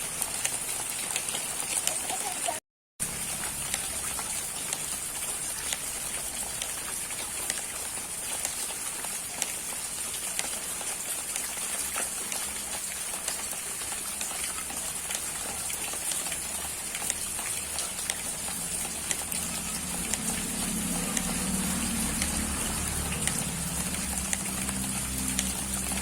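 Steady heavy rain falling, a dense hiss of drops pattering on surfaces, broken by a moment of silence about three seconds in.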